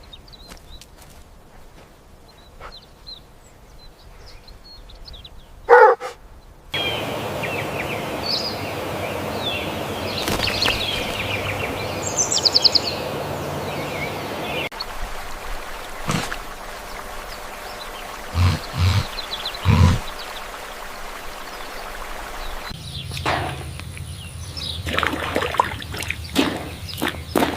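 Outdoor ambience that changes abruptly several times, with birds chirping, mostly between about seven and fourteen seconds in. A sharp knock comes near six seconds in, and a few low thumps come later.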